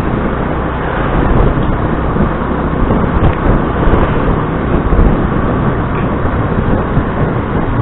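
Motor scooter being ridden through town traffic: steady engine and road noise that swells and dips, with no clear single event standing out.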